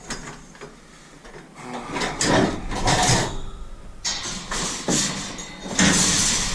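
Scrap metal being handled and moved, with a few bursts of scraping and clattering.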